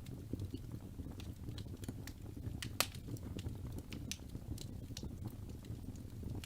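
Wood fire burning with a steady low rumble and scattered sharp crackles and pops, the loudest pop a little under three seconds in.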